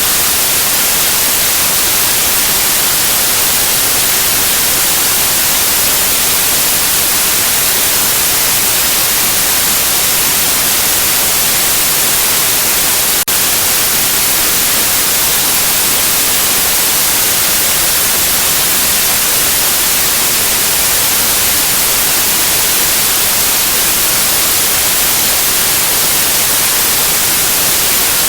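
Steady white noise: an even, unbroken hiss, brightest in the high treble. A faint click about halfway through.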